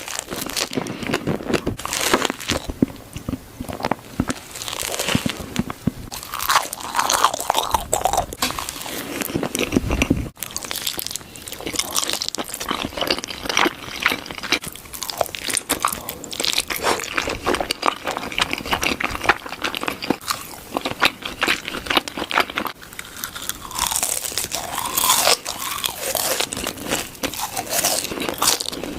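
A person biting and chewing crunchy food close to the microphone, with dense, irregular crisp crunches and crackles throughout.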